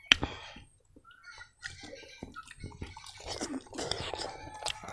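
Close-up wet chewing and lip smacking of a person eating meat curry and rice by hand, with a sharp loud smack right at the start. The chewing grows busier and louder in the second half.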